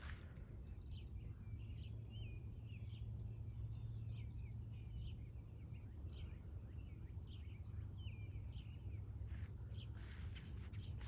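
Several songbirds singing and chirping, one repeating a high chirp about four times a second, over a steady low rumble. A run of rustling clicks comes in near the end.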